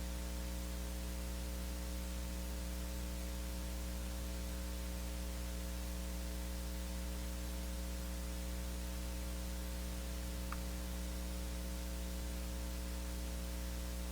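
Steady electrical mains hum with a constant hiss, unchanging throughout: the noise floor of the audio feed with no one speaking.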